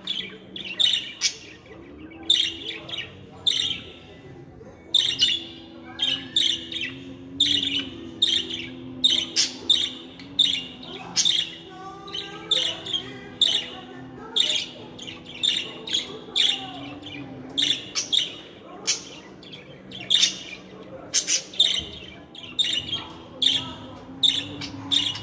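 Budgerigars chirping and warbling: rapid, sharp high chirps several times a second, with softer warbling chatter between them, over a low steady hum.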